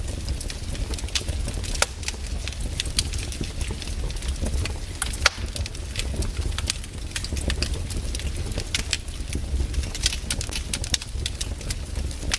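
Campfire crackling: burning wood pops and snaps in irregular sharp cracks, several a second, over a low steady rumble.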